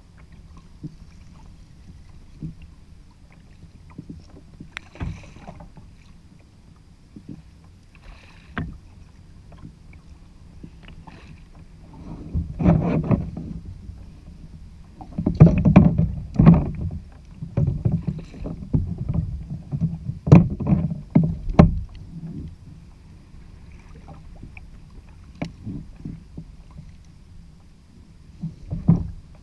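Knocks and bumps on a fishing kayak's hull and deck, thickest and loudest in a run through the middle, over a steady low wind-and-water rumble.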